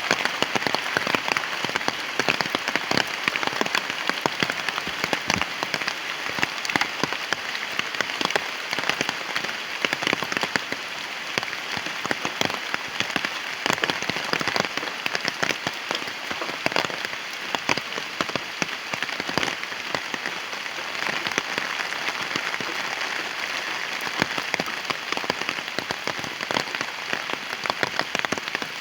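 Heavy rain falling steadily, with a dense patter of sharp drop impacts close by.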